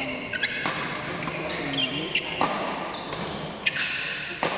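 Badminton doubles rally: three sharp racket hits on the shuttlecock, spaced about two seconds apart, with short high squeaks of shoes on the court in between.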